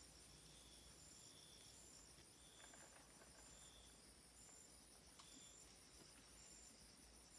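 Faint chorus of forest insects, crickets or cicadas: a steady high-pitched trill with short chirps repeating a little more than once a second over it.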